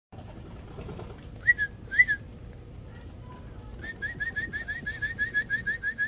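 A bird's high, thin whistled chirps: two single rising-and-falling notes, then about two seconds later a fast run of the same chirp repeated about six times a second.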